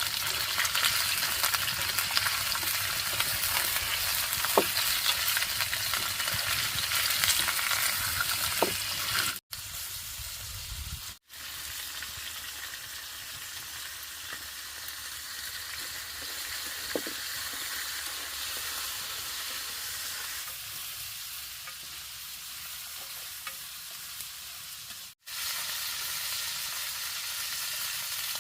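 Food sizzling in hot oil in a pan as it fries, with stirring; louder for the first nine seconds or so, then softer after a couple of brief cuts.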